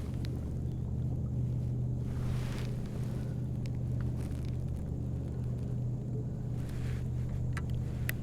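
Electric trolling motor on a fishing kayak, humming steadily under a low rumble, with a few faint clicks near the end.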